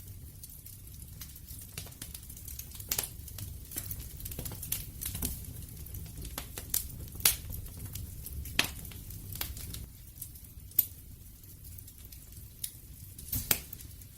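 Wood fire crackling: irregular sharp snaps and pops of burning wood over a low steady rumble, with a few louder pops scattered through.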